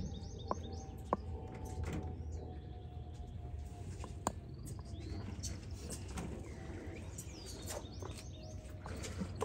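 Small birds chirping: a quick run of short repeated high notes at the start and another near the end, with other scattered calls between. A steady low rumble runs underneath, and there are a few sharp clicks.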